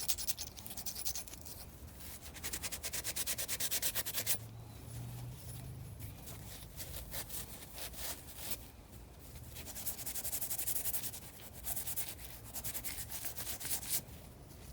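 A Honda XR250L engine valve being scrubbed by hand to clean off rust and deposits, with quick back-and-forth rubbing strokes on the metal. The scrubbing comes in three spells of rapid strokes, with lighter rubbing in between.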